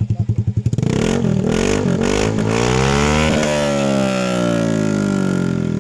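Honda Airblade 150 scooter's single-cylinder engine through a Villain aftermarket muffler with its silencer insert removed. It idles with an even pulse, then revs in a few quick blips up to a peak about three seconds in and slowly winds back down.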